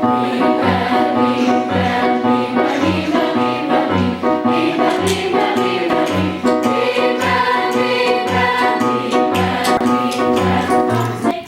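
A group of voices singing in chorus over instrumental accompaniment with a steady bass beat about twice a second. The music cuts off suddenly near the end.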